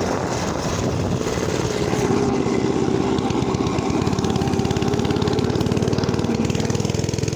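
Small motorbike engine running steadily under throttle, its firing pulses close and even, rising a little in pitch about two seconds in.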